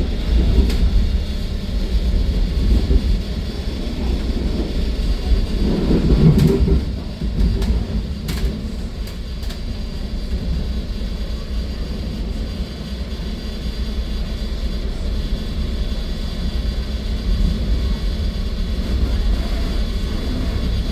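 Steady low rumble of a Metra commuter train running, heard from inside the passenger car. The rumble swells louder about six seconds in, and a few sharp clicks follow over the next few seconds.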